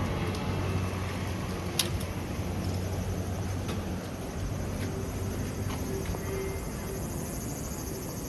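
Street ambience: a steady, high insect drone over a low engine hum that weakens after the first few seconds, with one sharp click about two seconds in.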